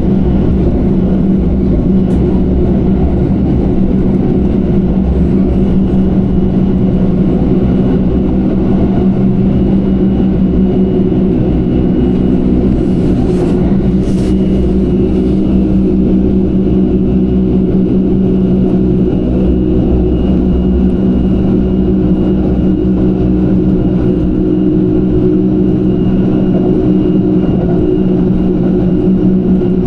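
Train running steadily along the line, heard from inside a passenger car: a continuous low rumble with a steady hum and a faint high whine. There are a couple of brief ticks about halfway through.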